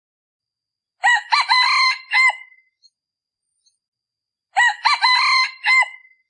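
A male decoy junglefowl cock crows twice, with short clipped crows about three and a half seconds apart. This is the call used to lure wild red junglefowl.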